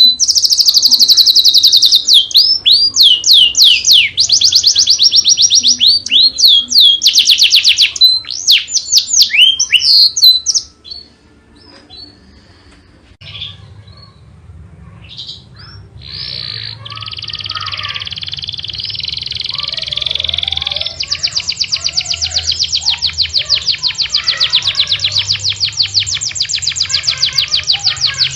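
A songbird singing loud, very fast trills of repeated sweeping whistled notes; about ten seconds in it falls to a few faint scattered notes, then a steady, rapid buzzing trill starts and grows louder past the middle. A faint low hum sits underneath in the second half.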